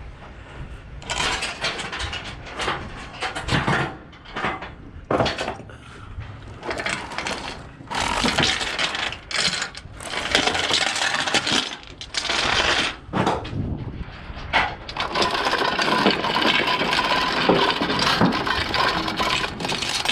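Irregular bursts of metallic clinking and rattling from flatbed load-securement gear being handled. It grows denser and more continuous over the last few seconds.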